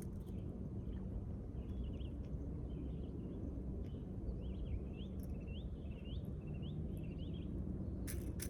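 Steady low outdoor rumble with a faint constant hum, over which a small bird calls in short rising chirps, running into a quick series of about six upslurred notes midway. A single sharp click near the end.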